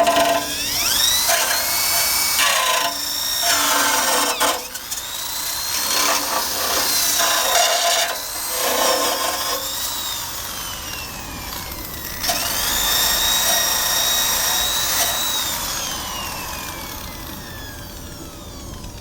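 Electric drill driving a wire brush against the scooter's metal frame, run in long trigger pulls. The motor whine climbs as it spins up and holds steady while the brush scrapes, then slides down as the drill coasts to a stop, once around the middle and again near the end.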